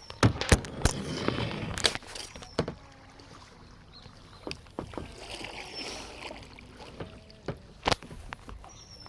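Kayak paddling: paddle strokes splashing in the water, loudest in the first two seconds, with sharp knocks scattered through and a strong one about eight seconds in.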